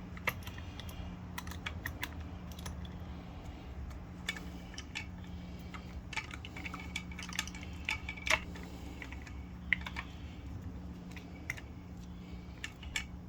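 Hands taking apart a septic aerator pump, working a part loose: irregular light clicks and taps of small plastic and metal parts, over a steady low hum.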